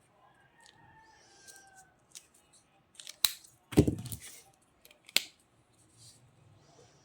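Scissors cutting paper or cardstock: two sharp snips, with a louder knock between them as something is set down or handled on the table.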